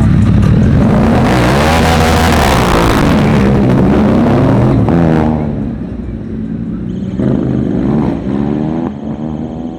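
A car engine accelerating and revving loudly for about five seconds, its pitch rising and falling. It then drops to a quieter engine note that keeps rising and falling.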